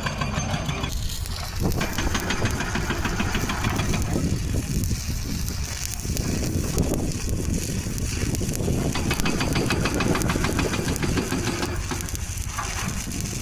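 Electric welding arc crackling steadily as a pipe joint is welded, over a steady low hum.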